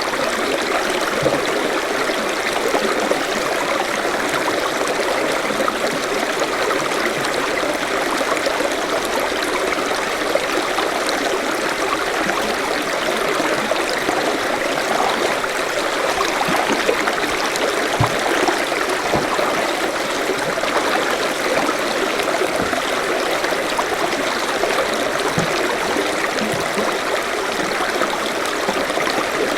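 A forest stream running over stones in a steady, unbroken rush, with small splashes and gurgles in it.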